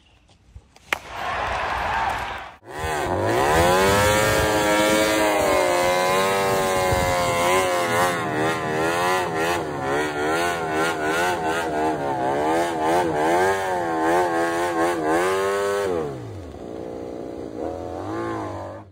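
Sportbike engine revving hard and held at high revs through a rear-tyre burnout, its pitch wavering up and down, then dropping to lower revs for the last few seconds.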